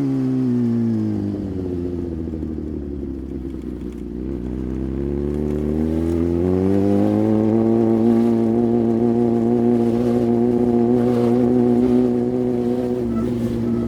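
Sport motorcycle engine under way: revs fall over the first few seconds as it slows, rise again from about five to seven seconds in, then hold steady.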